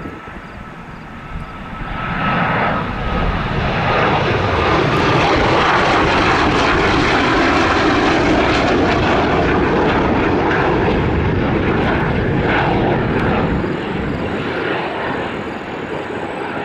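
Northrop T-38 Talon's twin J85 turbojets on a low approach pass: the jet roar swells about two seconds in, stays loud for some ten seconds, then eases off near the end.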